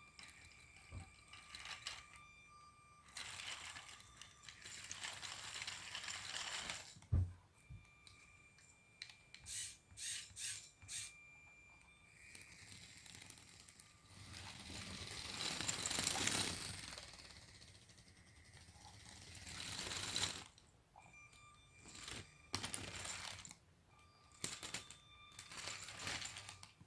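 Plastic gears and tracks of a motorized LEGO Technic bulldozer running in several bursts of a few seconds each, clicking and rattling, with a sharp knock about seven seconds in.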